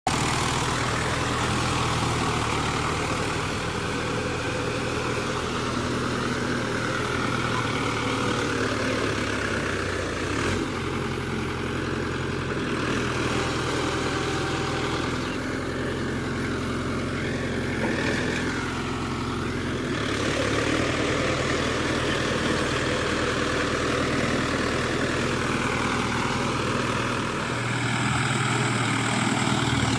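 Mahindra Yuvo Tech+ 575 DI tractor's diesel engine running steadily. The sound changes about two seconds before the end.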